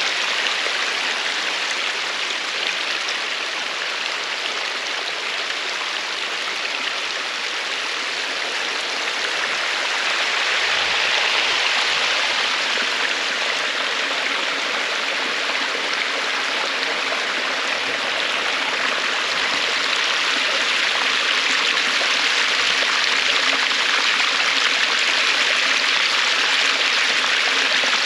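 Stream water rushing and splashing in a steady, even hiss, swelling a little now and then.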